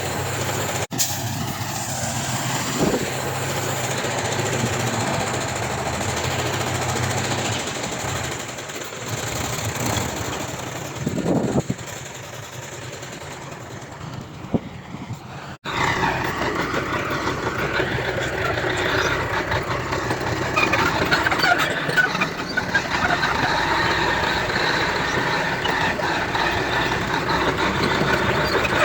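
Heavy diesel earthmoving machinery running steadily. Partway through, the sound changes abruptly to a busier, brighter machine noise.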